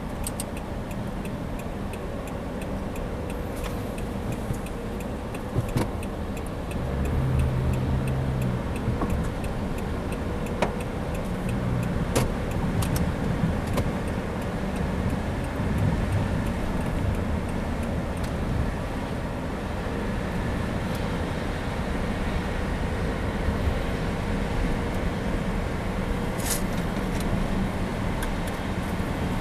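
Steady rumble of a car driving, with road and engine noise and a few sharp clicks.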